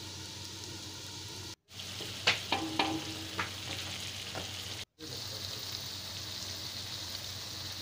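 Chicken and tomato masala sizzling in a kadai, with a wooden spatula scraping and knocking against the pan several times while it is stirred in the middle of the stretch. The sizzle cuts out briefly twice.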